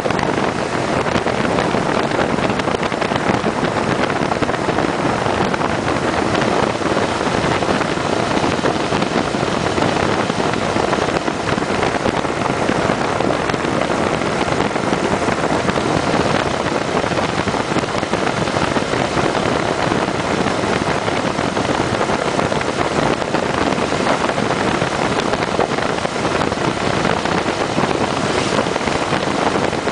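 Steady wind rush on the microphone of a moving motorcycle, a 2010 Kawasaki Vulcan 900 Custom SE, with the bike's engine and road noise running underneath at an even level.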